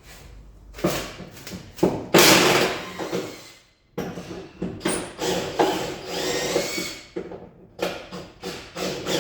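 Power tool run in several bursts of one to three seconds with short stops between, undoing the engine and gearbox mount bolts.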